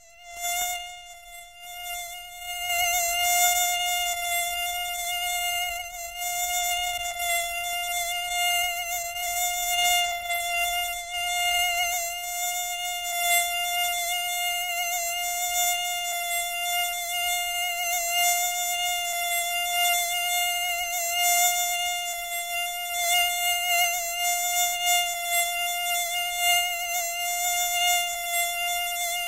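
Mosquito buzzing: a steady, high-pitched whine that fades in over the first few seconds, then holds at one pitch, wavering slightly in loudness.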